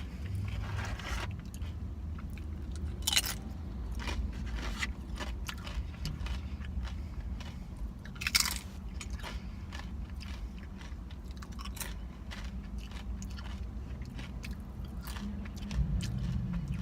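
Someone eating close to the microphone: steady chewing with many small crunchy bites, and two louder crisp crunches about three seconds and eight and a half seconds in.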